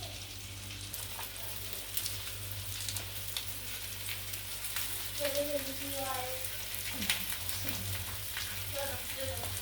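Chicken shami kabab patties frying: a steady sizzle with scattered crackles and pops.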